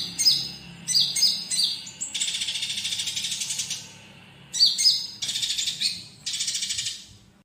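Songbird song for bird training: a konin's song that mixes sharp, quickly falling whistled notes with fast buzzy trill passages, broken by a short pause. It cuts off abruptly at the end.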